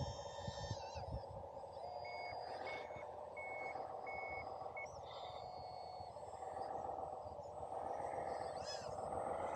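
Reversing beeper sounding four times at one steady pitch, evenly spaced, typical of a scale RC construction truck's backing alarm, over a steady background hum.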